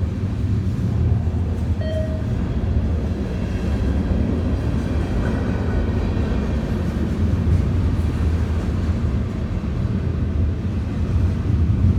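CN train rolling past with a steady low rumble, with a faint, brief squeal about two seconds in.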